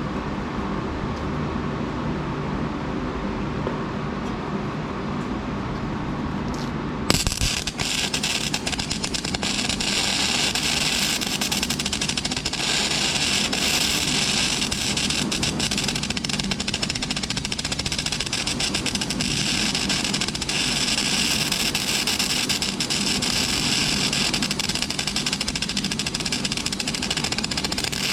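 Flux-cored wire-feed arc welding: after a steady hum, the arc strikes about seven seconds in and crackles on steadily.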